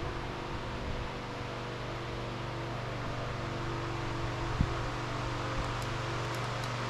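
Steady motor hum of a running fan, with a single light knock about four and a half seconds in.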